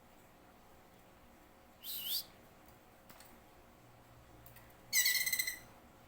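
Green leafbird (cucak ijo) calling twice: a short swooping whistle about two seconds in, then a louder, buzzy, fluttering call lasting about half a second near the end.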